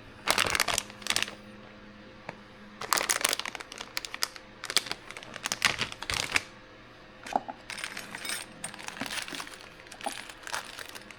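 Hands rummaging through a crinkly plastic parts bag: repeated bursts of crinkling and rustling mixed with small parts clicking against each other.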